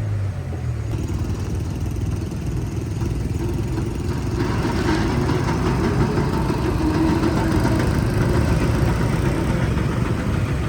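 Heavy construction-machine diesel engine running, with a low, fluttering rumble that grows fuller and louder from about four seconds in as it works harder.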